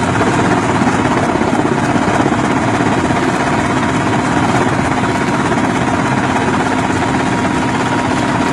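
Helicopter rotor and engine noise, steady and loud, with a fast, even chop.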